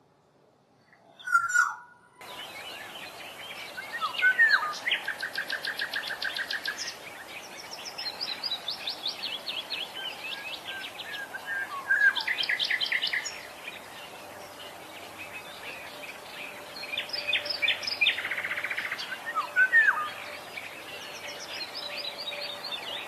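Several wild birds singing and calling together, with fast trills and chirps repeated over and over. It starts abruptly about two seconds in, after one short loud call.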